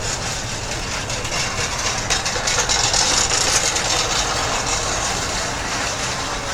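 Street traffic noise from a large vehicle moving close by, swelling loudest a couple of seconds in with a rushing hiss, then easing off.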